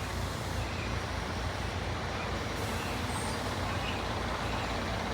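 Volvo B10B bus's diesel engine running steadily at low revs, a constant low-pitched sound as the bus pulls in.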